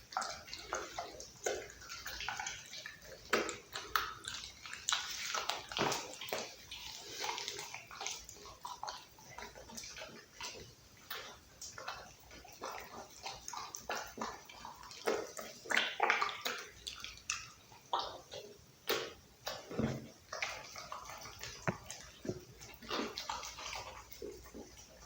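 A pit bull chewing raw meat up close: dense, irregular wet chewing with sharp crunches.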